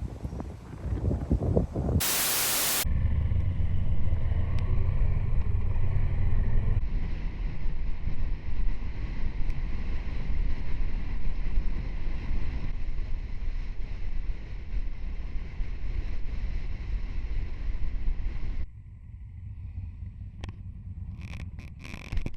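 Motorcycle on the move: wind rushing over the microphone above a steady low engine drone. A short burst of loud hiss comes about two seconds in, and the sound drops suddenly to a quieter background near the end.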